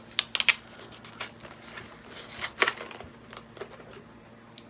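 Plastic blister packaging of a Hot Wheels die-cast car being pried and cracked open by hand: scattered sharp clicks and crackles, with a small cluster near the start and the loudest snap about two and a half seconds in.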